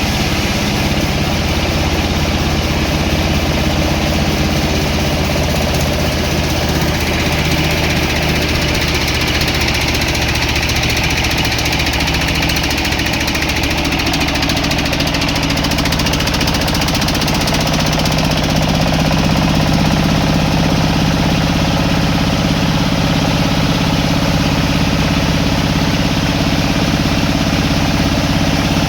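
Sawmill machinery running steadily with an engine-like drone, and a higher whine added from about a quarter of the way in to about halfway.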